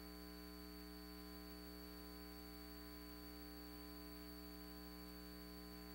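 Faint, steady electrical mains hum with a light hiss underneath, unchanging throughout.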